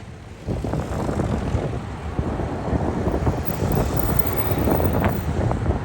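Airliner engine noise swelling and fading, a steady rumble with a rising and falling hiss, with wind buffeting the microphone.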